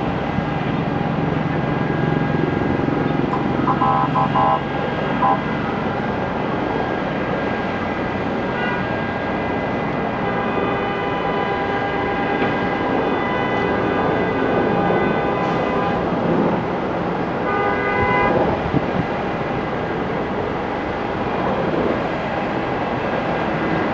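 Steady urban traffic noise with short vehicle horn honks about four seconds in and again near eighteen seconds.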